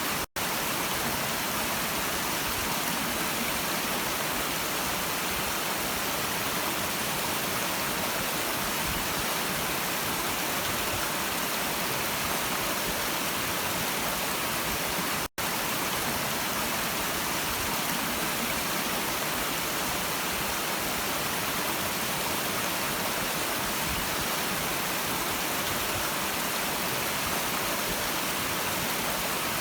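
Steady rushing of a flowing stream, the water noise even and bright, cut by two split-second dropouts to silence, just after the start and about halfway through.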